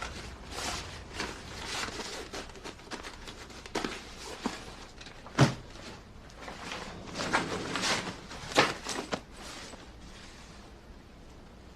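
Irregular rustling and soft knocks in a small room, with one sharp thump about five and a half seconds in and a run of louder knocks a couple of seconds later.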